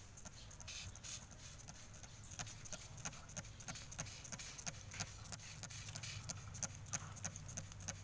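A black drongo being bathed under a water spray: quick, irregular pattering and tapping at several a second, with a few short hissy bursts.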